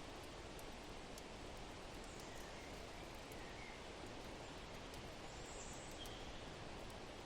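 Soft steady wind with a few faint, short bird chirps and scattered light crackles of a wood fire.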